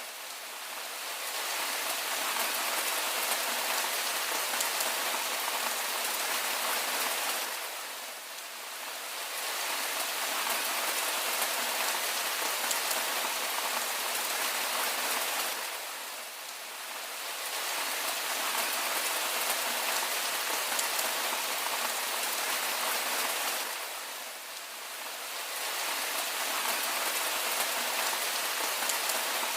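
Steady rain falling, an even hiss of drops on a surface, with the level dipping briefly about every eight seconds.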